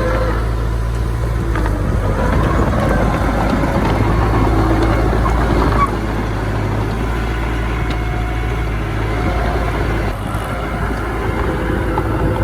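Diesel engines of earthmoving machinery (a bulldozer and dump trucks) running steadily under load, a heavy low rumble with some wavering higher-pitched whines over it. The level drops suddenly about six seconds in.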